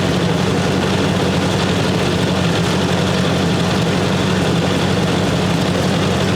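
1958 Ford 851 tractor's four-cylinder engine idling steadily.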